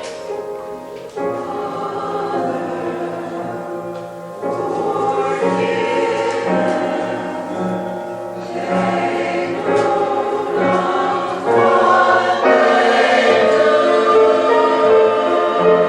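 Choir singing a sacred cantata passage in sustained chords. It steps up in volume about four seconds in and again about twelve seconds in.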